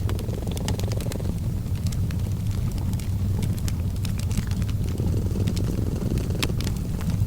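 A cat purring steadily as a low, even rumble, with the scattered sharp crackles and pops of a wood fire in a fireplace over it.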